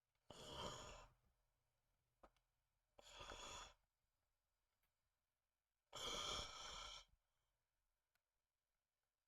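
Three breathy exhales close to the microphone, a few seconds apart, like a person sighing or breathing out heavily while concentrating.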